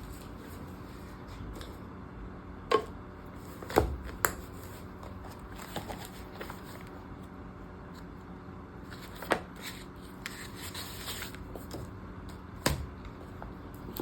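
Planner supplies being handled on a tabletop: five sharp taps and clicks as items are picked up and set down, with a light rustle of packaging near the end.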